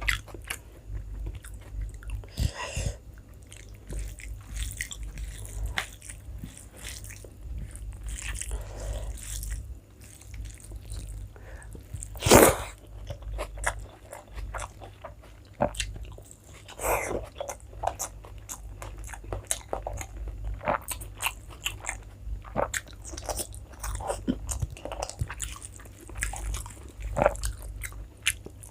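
Close-miked chewing and biting of rice and curry, with many small wet mouth clicks and smacks. A louder sharp sound stands out about twelve seconds in.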